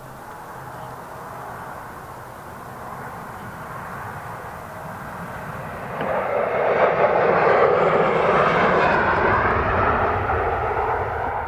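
Turbofan engines of an Embraer regional jet passing close by, a rushing jet noise that builds, gets suddenly louder about halfway through, then starts to fade near the end.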